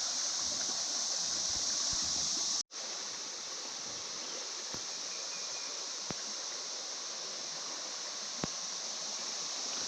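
Steady high chorus of insects over the rush of the swollen, flowing Cache River. The sound cuts out briefly a little under three seconds in and resumes slightly quieter.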